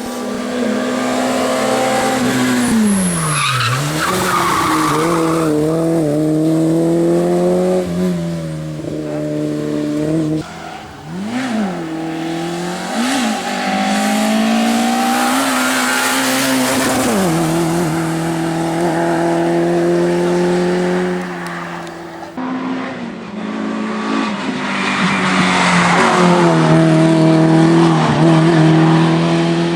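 Race car engines at high revs, climbing and dropping sharply through gear changes and lifts of the throttle, with tyres squealing as the cars slide through corners. Several cars are heard in turn, each cut short as the next begins.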